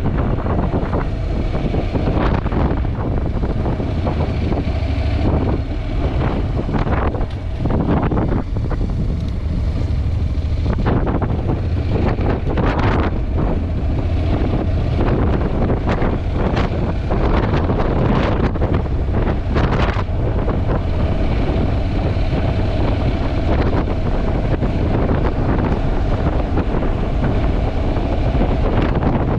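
Wind buffeting the microphone of a GoPro on a moving motorcycle: a heavy, constant low rumble with gusty flares every second or so, over the road and engine noise of the Honda NC750X.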